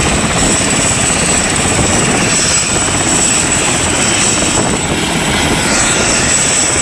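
Helicopter running at close range: a loud, steady rotor and engine noise with a thin, steady high whine on top.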